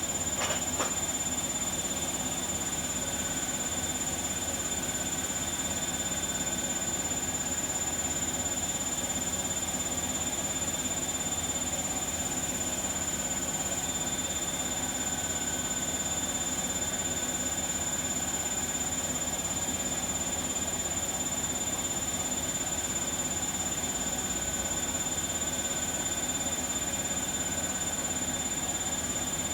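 Bosch front-loading washing machine running steadily, most likely on its spin, with an even hum and a constant high whine and no changes or knocks. It is being run to check for worn drum bearings, which the owner suspects.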